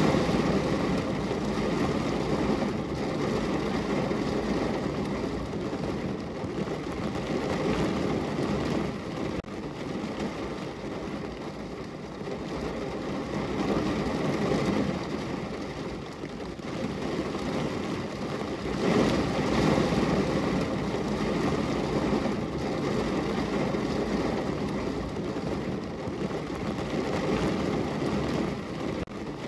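Rain pattering on a window pane in a steady hiss, swelling louder every several seconds.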